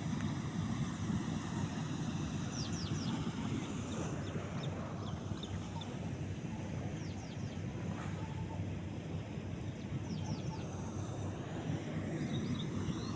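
Canal water rushing over a fall with a steady low rumble. A bird calls over it several times in quick runs of three or four high chirps.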